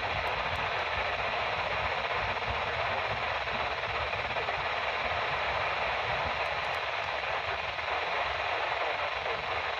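Steady radio static: an even hiss of a radio receiver carrying no speech, with no change in level.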